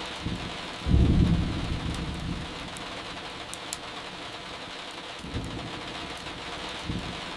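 Steady rain with thunder: a loud low rumble about a second in that fades over the next second and a half, and a weaker rumble about five seconds in.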